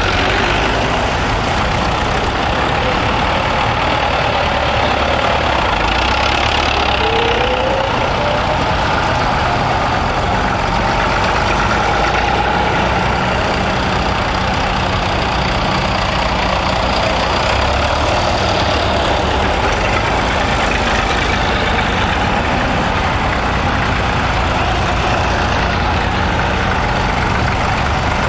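Tractor engines running steadily, with one engine's pitch rising briefly about six seconds in.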